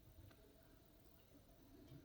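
Near silence, with a couple of faint clicks.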